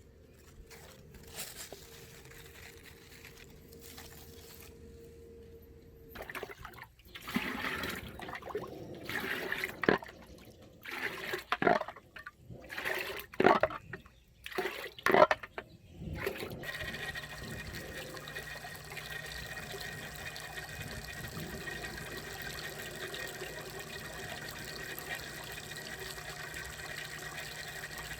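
A run of irregular knocks and clattering bursts, then, from a little past halfway, a steady rush of running water.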